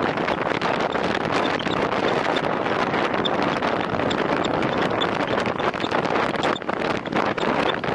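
Steady loud wind rush on the microphone of a road bicycle riding at time-trial speed, with faint high ticks scattered throughout.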